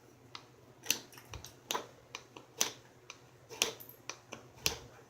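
Sharp clicks of flintknapping tools working the edge of a stone preform: about one loud click a second, with fainter ticks between.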